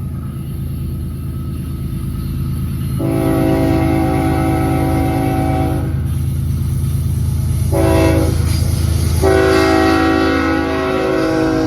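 BNSF freight diesel locomotive's air horn sounding a chord: a long blast, then a short one, then another long one that runs on, over the steady rumble of the locomotive's diesel engine. The pattern matches the long-long-short-long grade-crossing signal.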